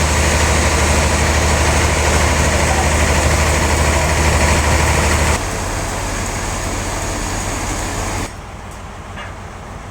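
Sawmill machinery running steadily: a low motor hum with a loud hiss over it. The sound drops abruptly about five seconds in and drops again, quieter still, about eight seconds in.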